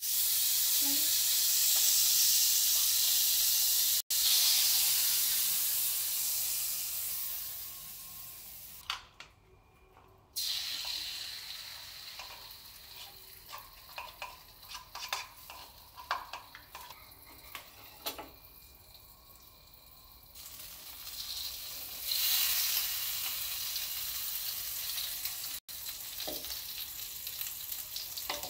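Hot fat sizzling in an aluminium wok as margarine melts and egg and macaroni fry. The sizzle is loud at the start, drops away in the middle, where a spatula scrapes and taps against the wok in short strokes, and grows loud again near the end.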